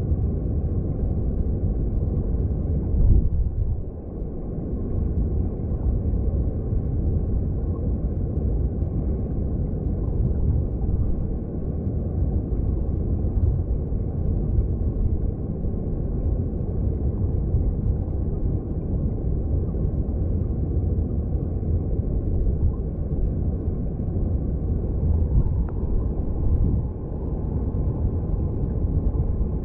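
Stream water heard through an underwater microphone: a steady, deep, muffled rush with little treble, swelling briefly about three seconds in.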